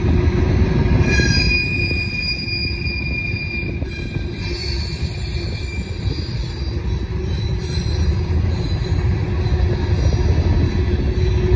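Empty covered hopper cars of a Norfolk Southern grain train rolling by on a sharp curve: a steady low rumble of wheels on rail, with high-pitched squeals from the wheel flanges that come and go, strongest a second or so in.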